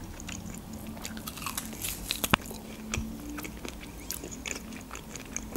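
Close-miked biting and chewing of grilled shashlik ribs, meat gnawed off the rib bone: a string of small irregular clicks, with one sharp click a little over two seconds in.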